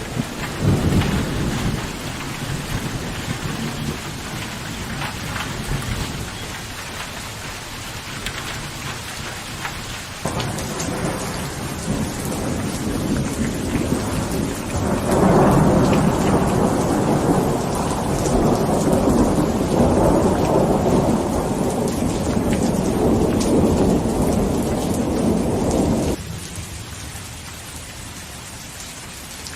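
Rain falling steadily with thunder rolling over it. A long, louder roll of thunder builds about halfway through and cuts off suddenly a few seconds before the end, leaving only the rain.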